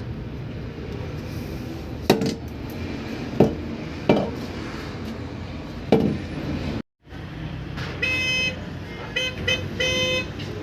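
Four hammer blows on iron at a forge, irregularly spaced a second or two apart, each ringing briefly. After a short dropout, near the end there are three short horn-like toots.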